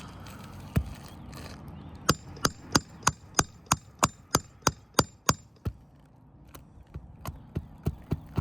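A hammer striking metal in a quick even run of about a dozen blows, roughly three a second, then a few lighter taps near the end. The blows work a roofing nail loose from an asphalt hip shingle.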